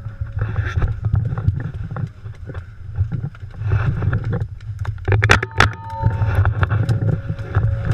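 Low rumbling wind and movement noise on the microphone, with scattered clicks and a cluster of sharp cracks about five seconds in.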